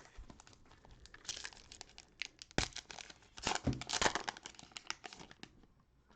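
A cellophane-wrapped trading-card pack being torn open and its plastic wrapper crinkled: a run of irregular crackles and rustles, loudest between about two and a half and four seconds in.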